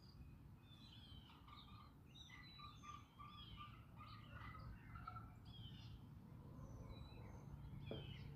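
Wild birds chirping and singing faintly, many short calls overlapping, with a run of short repeated notes at one pitch in the middle, over a steady low background rumble.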